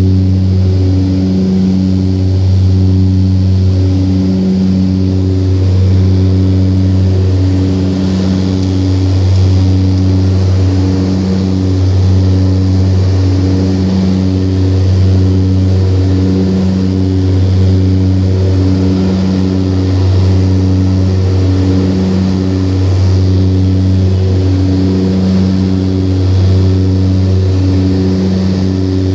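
Twin turboprop engines and propellers of a Let L-410 running steadily under power: a loud, even drone with a slow regular throb, about one pulse every second or so, where the two propellers beat against each other.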